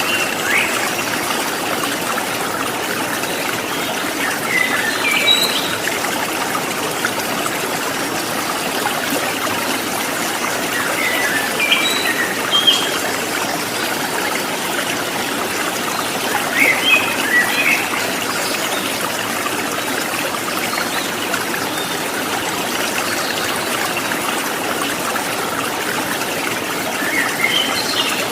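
Small stream of water trickling and babbling steadily, with birds chirping over it in short bursts of a few notes, about four times.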